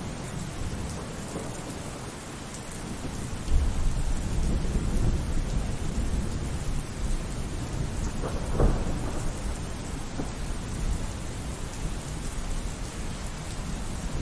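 Steady rainfall with thunder. A low rumble swells suddenly about three and a half seconds in and rolls on, with a sharper clap a little past the middle.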